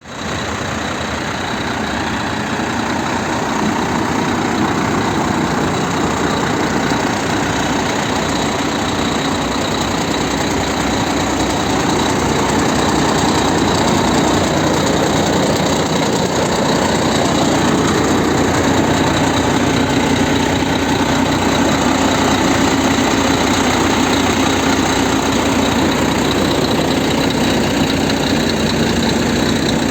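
Scania G 380 truck's inline-six diesel engine idling steadily.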